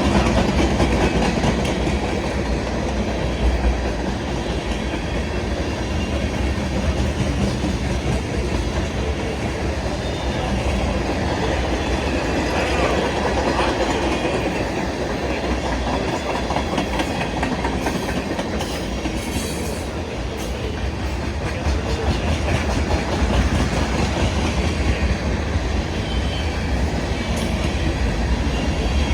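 Long freight train rolling past, its cars' wheels clacking steadily over the rail joints.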